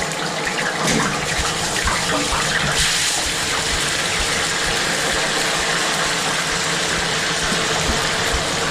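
Steady, loud sizzling of food frying in a food-truck kitchen, a little brighter about three seconds in.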